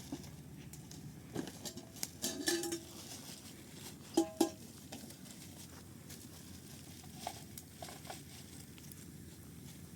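Dishes and utensils being handled: scattered light knocks and clinks, with a louder ringing pair of clinks about four seconds in.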